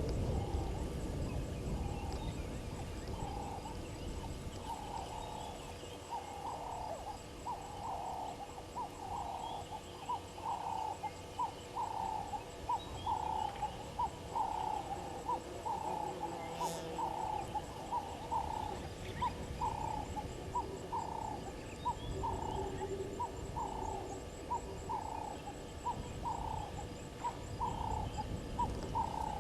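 A bird calling a long series of short whistled notes, about two a second, that quicken toward the end.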